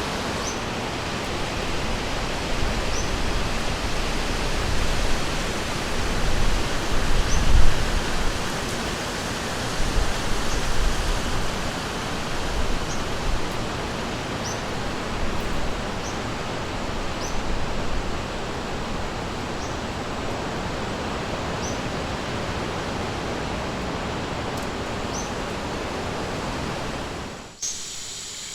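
Steady rushing of a river, with low rumbles swelling in the middle and a short high chirp every couple of seconds. Near the end it cuts abruptly to a quieter recording with a steady high buzzing.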